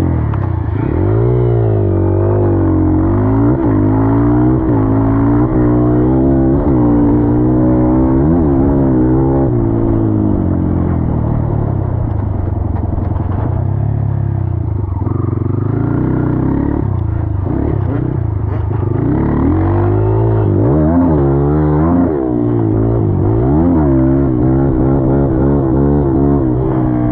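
Dirt bike engine being ridden hard, its pitch climbing and dropping again and again as the throttle opens and closes and it shifts through the gears.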